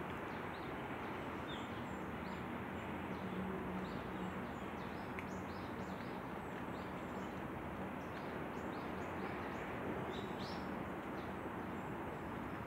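Small birds chirping: many short, high chirps scattered throughout over a steady outdoor background hiss.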